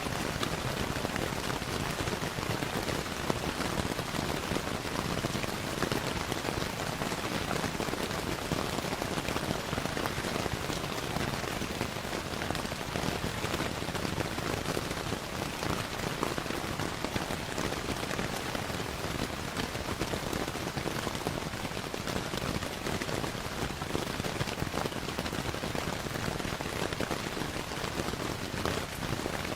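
Steady rain falling, mixed with the small pops and crackles of a wood fire in a fireplace, all as an even, unbroken wash of sound.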